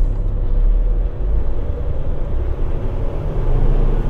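Semi-truck's diesel engine and road noise heard from inside the cab: a steady low rumble while the truck is driven through a turn.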